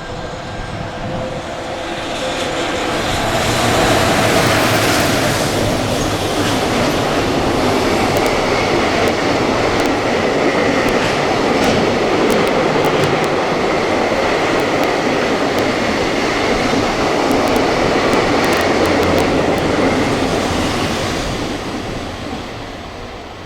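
A train passing through at speed, with a rising and falling rush of noise and wheels clicking rapidly over the rail joints as the cars go by. It builds over the first few seconds, holds for most of the pass, and fades near the end.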